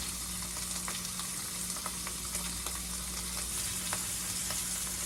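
Ribeye steak frying in butter in a pan: a steady sizzle with scattered small crackles, over a low steady hum.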